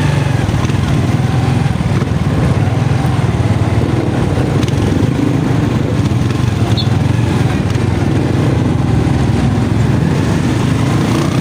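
Motorcycle engine running steadily at an even pace, a constant low hum.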